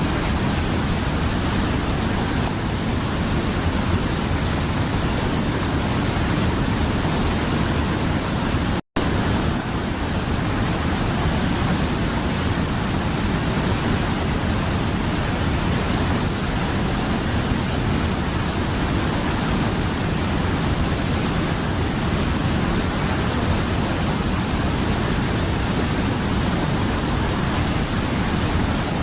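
Mountain river flowing, a steady rushing of water. The sound cuts out completely for an instant about nine seconds in.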